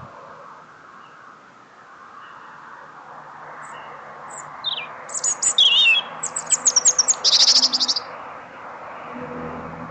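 Small songbird singing: a few faint chirps, then about halfway through a loud phrase with a warbled note and a rapid trill, ending about three seconds later.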